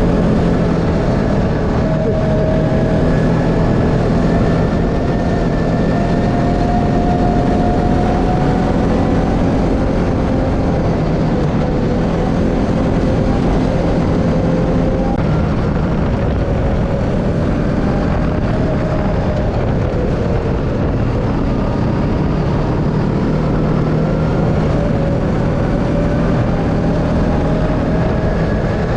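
An engine running steadily under a continuous rush of noise, its pitch drifting slowly up and down.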